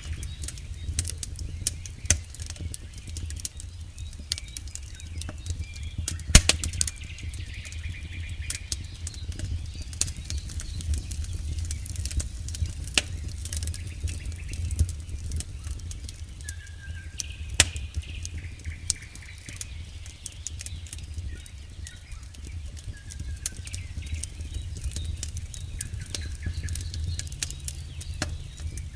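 Campfire burning with constant crackling and snapping over a low rumble of the flames, with two louder pops, about six seconds in and again near eighteen seconds.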